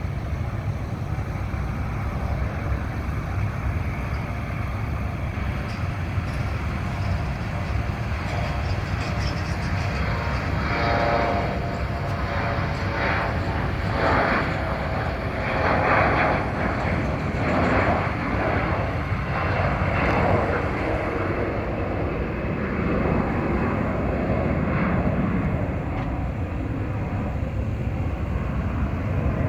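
Airplane engines heard from an aircraft taking off or landing, swelling from about ten seconds in and fading after about twenty seconds, over a steady low rumble.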